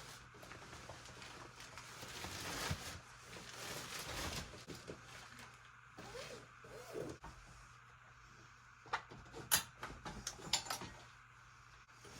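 Rustling and handling of a baby bassinet as it is taken apart, with a few sharp clicks and knocks about nine to eleven seconds in.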